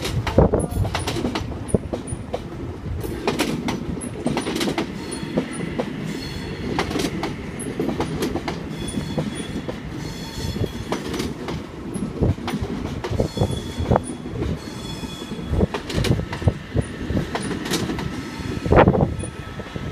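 Eight-car OSCAR H-set double-deck electric train rolling slowly over the yard pointwork, its wheels clacking over rail joints and crossings under a steady rumble. Faint high wheel squeals come in a few times.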